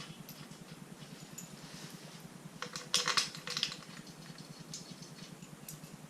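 Light metallic clicking and tapping of hand tools and bolts as intake manifold bolts are snugged up on a rotary engine, with a cluster of clicks about three seconds in and a few more near the end.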